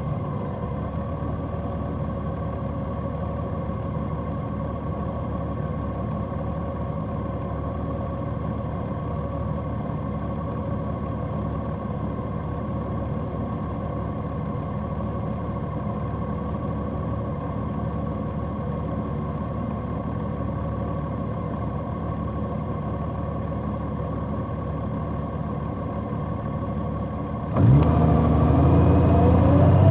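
Large motorcycle's engine running at a steady speed while riding, then revving up and accelerating with rising pitch, louder, near the end.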